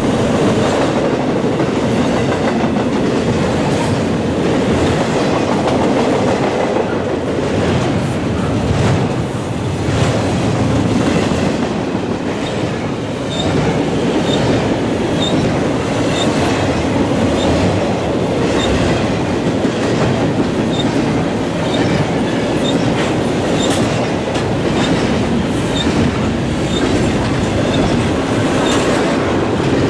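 Double-stack intermodal freight train of container-laden well cars rolling past at speed: a steady rumble and rattle, with wheels clicking over the rail joints.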